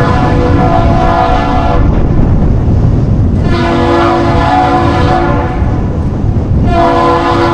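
Captain's salute on deep air horns, exchanged between the Great Lakes freighter American Mariner and the Duluth Aerial Lift Bridge. A long blast ends about two seconds in, a shorter blast sounds in the middle, and another long blast begins near the end, over a steady low rumble.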